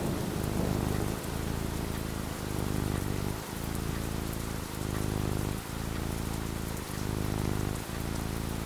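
Steady rainfall, an even hiss of drops, over a low rumble that swells and dips about once a second.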